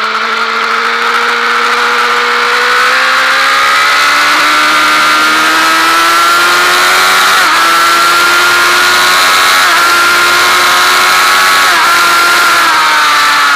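Honda Fireblade's inline-four engine accelerating hard on track: the pitch holds at first, then climbs steadily, broken by three quick upshifts in the second half, each a short drop in pitch. A steady rush of wind runs under the engine.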